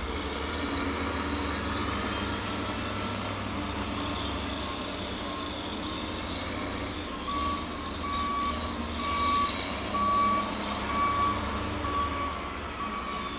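Heavy diesel machinery rumbling steadily while a back-up alarm beeps, faint at first and then clear and regular from about halfway through, a little under two beeps a second.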